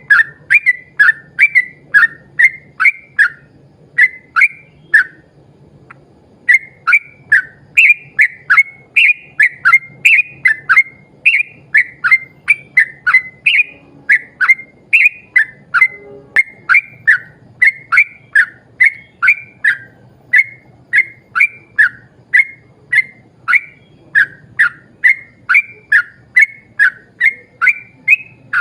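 Yellow-vented bulbul (trucukan) singing a long, fast run of short whistled notes at about two to three a second, with a brief pause about five seconds in.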